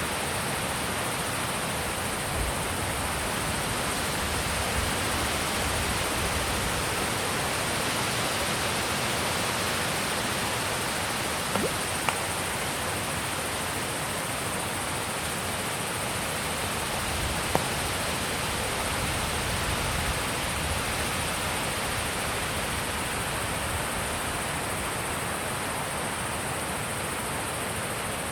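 Wind blowing steadily, an even rushing hiss with no gusts standing out, with a few faint ticks.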